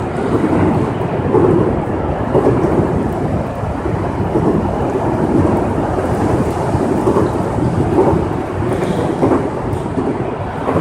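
Heavy rain falling, a steady, dense rush that sits low in pitch and swells slightly from moment to moment.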